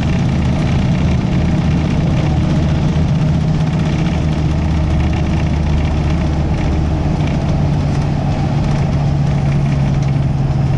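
Car on the move: a steady drone of engine and road noise, even throughout, with no sudden sounds.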